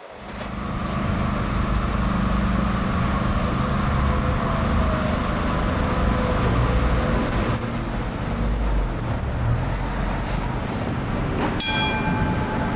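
A passing tram or train running with a steady low rumble, with high-pitched wheel-type squealing for about three seconds midway and a short ringing tone near the end.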